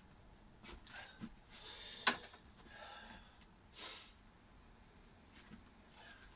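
Quiet handling noises: a few light clicks and knocks, with one sharper click about two seconds in and a short hiss, like a sniff or breath, near four seconds.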